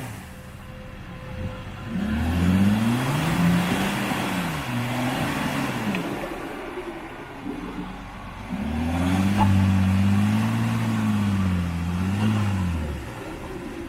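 Mercedes G-Class engine revving off-road. Its pitch rises and falls a few times from about two seconds in, then holds in a longer, wavering rev from about nine seconds before dropping away near the end.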